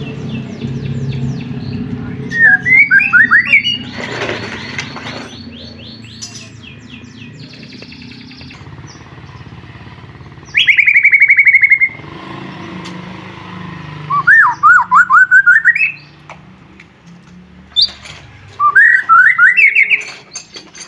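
White-rumped shama (murai batu) singing: four loud phrases of rapid, repeated whistled notes, each one to two seconds long, with quieter chirps in between. A low steady hum runs under the first half.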